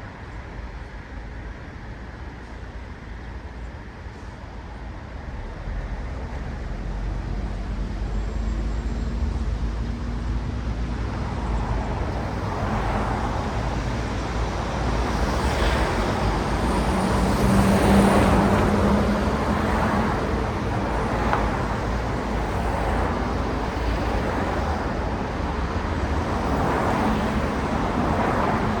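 City road traffic: cars passing one after another, with a steady low rumble of engines and tyre noise. It builds from about a quarter of the way in, and one vehicle passing about two-thirds through is the loudest.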